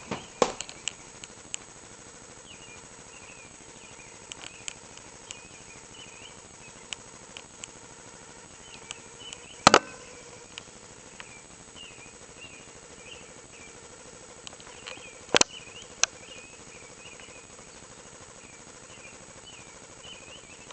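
Dawn birdsong, faint and continuous chirping heard through a closed window. A few sharp clicks cut in, the loudest about ten seconds in and again around fifteen seconds.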